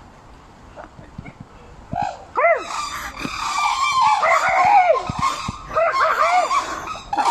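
A person's imitated bird call and a bird calling back. The calls are loud, repeated and overlapping, each rising and then falling in pitch, and they begin about two seconds in.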